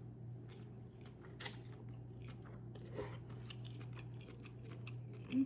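Close-up chewing with many small wet mouth clicks and crackles as a person eats malatang, over a steady low hum. There is a short louder sound just before the end.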